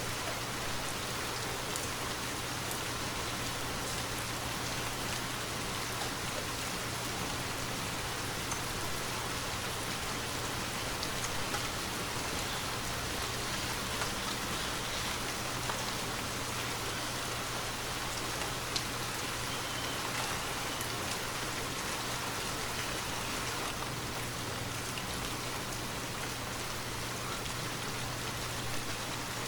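Steady, continuous rainfall, with scattered individual drops ticking through it.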